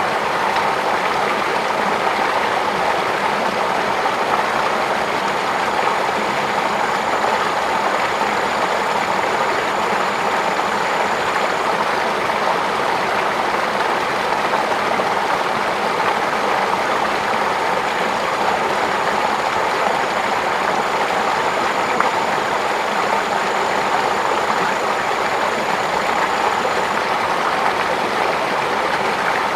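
Flowing water rushing steadily. A faint, thin high whine comes in twice, each time for about six to ten seconds.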